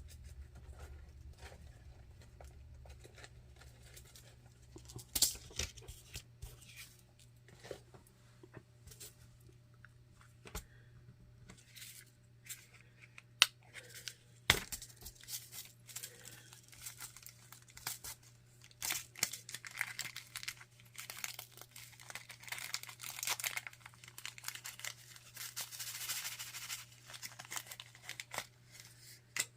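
Small plastic bags crinkling and rustling as they are handled, with scattered light clicks and taps; the crinkling gets busier in the second half.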